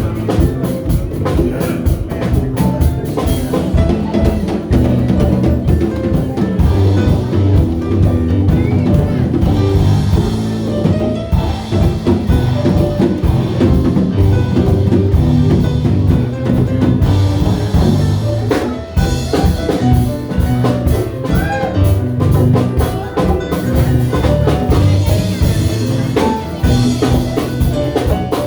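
A band playing with a steady drum-kit beat and a moving line of low notes underneath.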